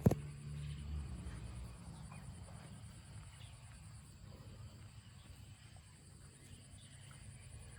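Water buffalo grazing, with faint scattered ticks of grass being torn and chewed. A sharp knock comes right at the start, and a low hum fades out within the first second.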